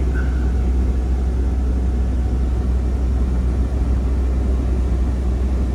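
Ford Triton 6.8-litre V10 idling steadily, heard inside the cab as a constant low hum with the heater blower running.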